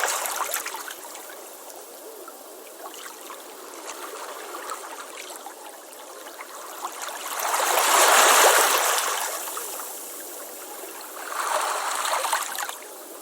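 Ocean waves breaking and washing up a beach. A loud surge of surf comes about 8 seconds in and another near the end, with a softer hiss of wash in between.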